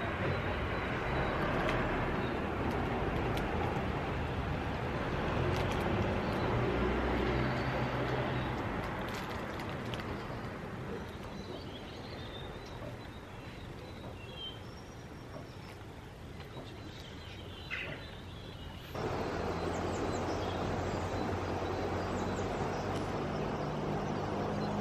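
Outdoor ambience of steady rushing wind and road noise, with a few faint bird calls in the middle. The noise changes abruptly about three-quarters of the way through.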